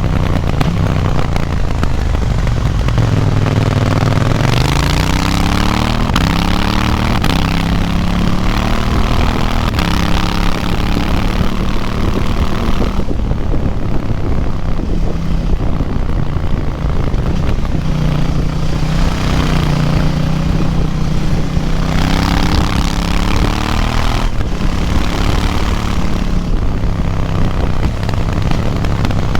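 Onboard sound of a KTM 790 Duke's parallel-twin engine, restricted to 47.5 hp for the A2 licence, pulling hard uphill. Its pitch rises as it revs out through the gears, then holds steady for stretches, with a rushing noise rising and falling as speed changes.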